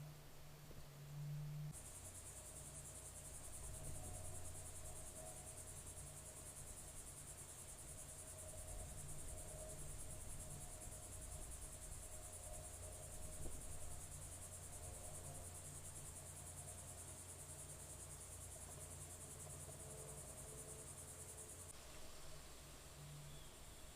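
Insects such as crickets calling in a steady, high-pitched chorus that starts abruptly about two seconds in and cuts off abruptly near the end, over a faint low hum.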